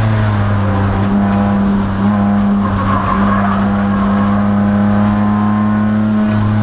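2002 Nissan Maxima race car's V6 engine running hard at nearly steady revs on track, a loud, even drone.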